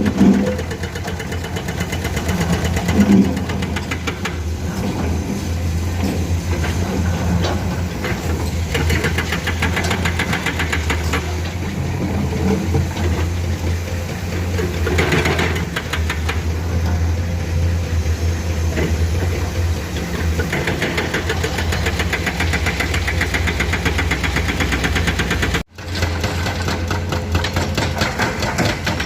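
Hydraulic excavators' diesel engines running steadily under work, with a few short knocks and clanks. The sound cuts out briefly near the end.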